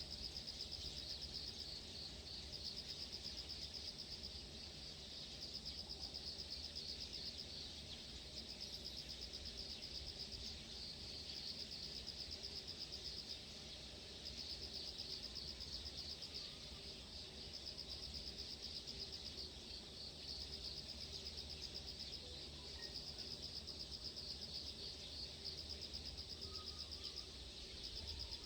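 Insects trilling in high, steady phrases a few seconds long with short breaks, over a low steady rumble, with a few faint bird chirps in the second half.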